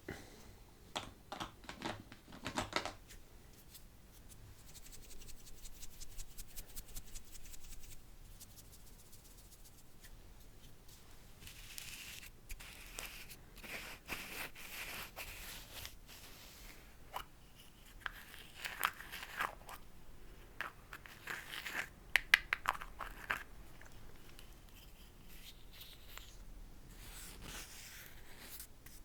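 Close-miked wet mouth sounds: clusters of sharp clicks and smacks, with stretches of soft hissing in between.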